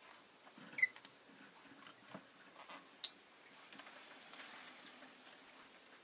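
Rosy-faced lovebird giving two short, sharp chirps, about a second in and about three seconds in, with faint scratchy tapping and rustling in between.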